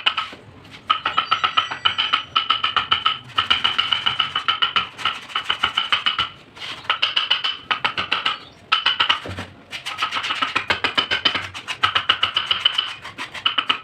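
Rapid, even tapping, about eight strikes a second, each ringing at the same pitch, in runs broken by brief pauses: a mallet striking a carving chisel.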